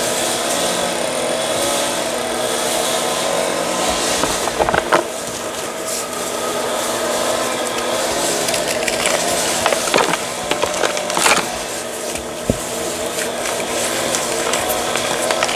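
Reformed chalk being crushed and crumbled, with a few sharp gritty crunches over a steady background noise.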